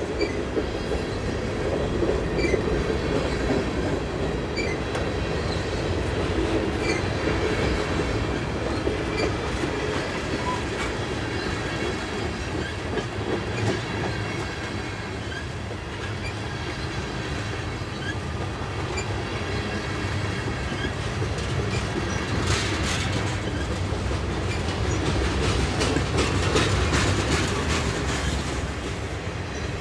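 Freight cars of a Union Pacific manifest train rolling past, with a steady rumble of steel wheels on rail. Faint, brief wheel squeals come through, and near the end there are bursts of wheel clicks over the rail joints.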